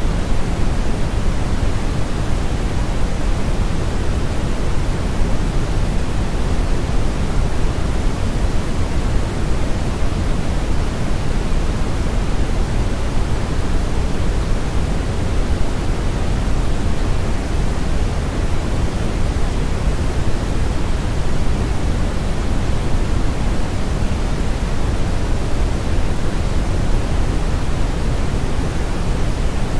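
Steady brown noise: an even, unchanging rushing hiss with most of its weight in the lows and the highs rolled off, like a river current or strong wind.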